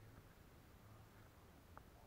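Near silence: faint room tone with a low hum and one soft tick near the end.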